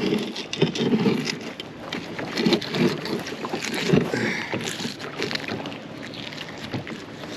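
Scattered clinks and knocks of metal junk stuck to a magnet-fishing magnet as it is handled, one knock standing out about four seconds in, with wind on the microphone.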